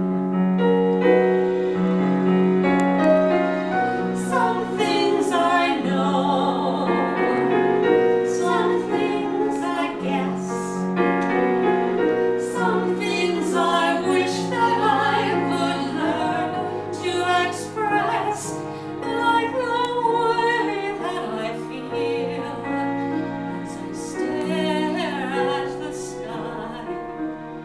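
A song sung with vibrato over an electronic keyboard accompaniment, held low chords underneath the melody.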